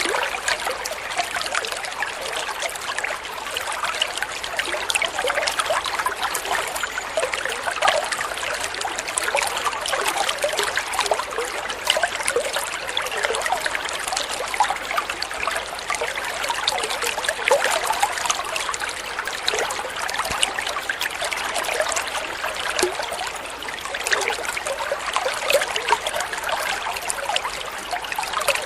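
Flowing water trickling and splashing steadily, like a small stream.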